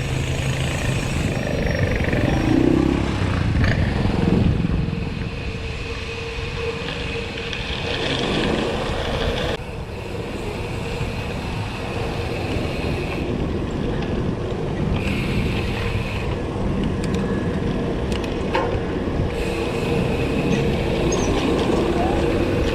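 Road traffic noise: vehicle engines running steadily in a slow traffic jam.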